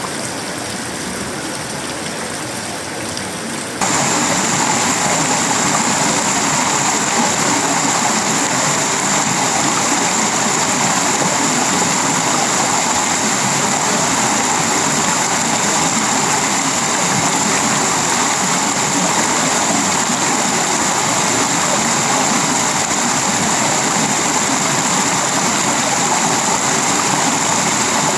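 Heavy tropical rain falling on a sheet-metal roof, wood and leaves, a dense steady hiss. About four seconds in it steps up abruptly to a louder, brighter hiss and holds there.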